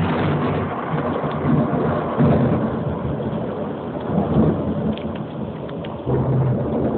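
Thunder rumbling over steady rain in a thunderstorm, swelling again about six seconds in.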